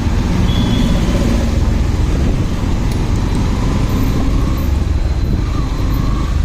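Steady riding noise of a motorcycle on the road: engine and tyre noise, with wind rumbling on the microphone.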